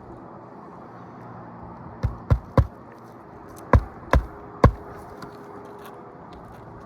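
Hammer striking six times, in two quick runs of three sharp knocks, while fastening an asphalt roof shingle back down.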